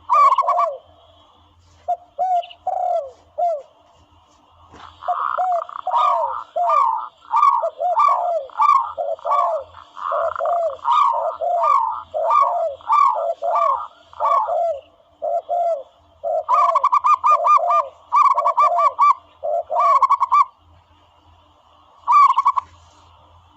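Dove calls played from a bird-hunting sound caller: a fast, steady run of short coos in two overlapping voices, one higher than the other, pausing briefly about four seconds in and again near the end.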